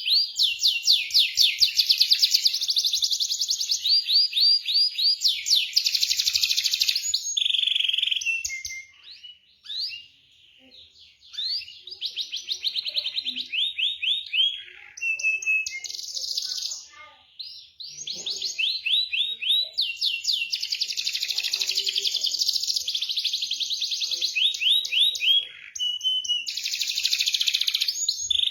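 Canary singing a long song of fast trills and rolls, rapid repeated chirping notes strung into runs, broken by two short pauses partway through.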